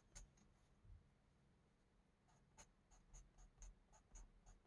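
Faint scratching of a coloring pencil stroking back and forth on a paper coloring page: a couple of light taps at first, then from about halfway a steady run of short strokes, about four a second.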